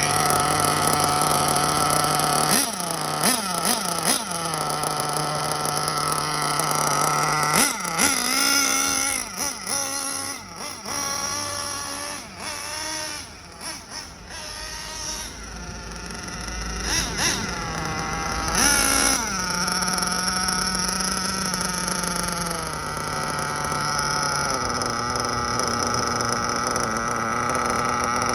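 Nitro RC buggy engine (Hobao Hyper VS) being run in: it runs steadily, blips the throttle a few times a few seconds in, then revs up and down with its sound dropping and coming back for about ten seconds before settling into steady running again.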